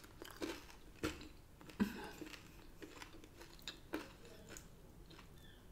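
Close chewing of crispy oven-cooked chicken wings and curly fries: irregular crunches, with sharper bites about one and two seconds in. A few faint, short, high falling squeaks come near the end.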